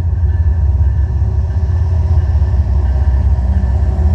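CN freight train's lead diesel locomotive, number 2999, passing close with a loud, steady low engine drone.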